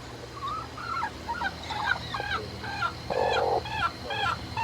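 Domestic hen calling in a rapid string of short, bent clucks, with one harsher, raspy squawk about three seconds in, the agitated sound of a hen that is about to peck.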